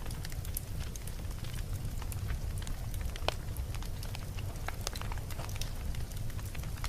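Campfire burning with a steady low rumble of flames and frequent sharp crackles and pops from the burning wood, one louder pop about three seconds in.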